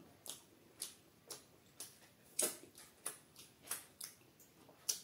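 Close-miked chewing: a mouthful of food chewed with wet, sharp mouth clicks about two a second, one louder smack about halfway through.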